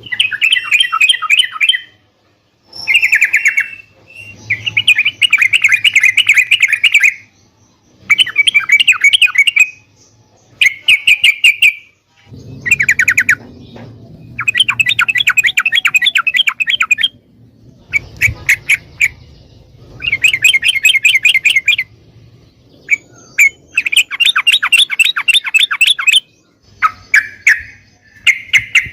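Yellow-vented bulbul (trucukan) singing: loud bursts of rapid chattering notes, each phrase one to three seconds long, repeated about a dozen times with short pauses between them.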